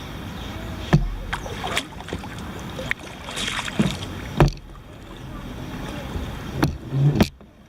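Kayak being paddled: water splashing with a series of sharp, irregular knocks as the paddle strikes the water and the boat's hull.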